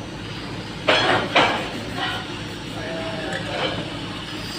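Two sharp metallic knocks about half a second apart, about a second in, then a few fainter clinks, over a steady low hum.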